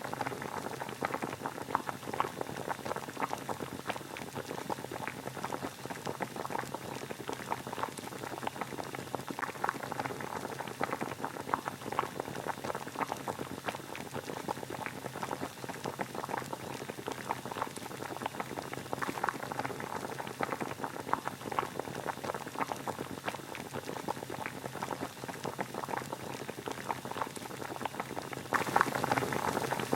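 Water boiling: a dense, steady bubbling made of many small pops, which gets a little louder near the end.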